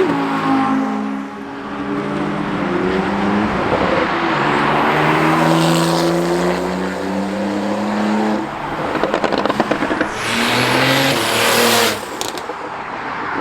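Car engines revving and accelerating away as cars drive off, their pitch rising and falling. There is a rapid crackle about nine seconds in, then a loud hard-revving run that cuts off sharply about twelve seconds in.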